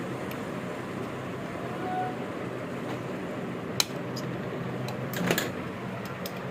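Steady mechanical hum with two sharp clicks or knocks, one just under four seconds in and one a little after five seconds.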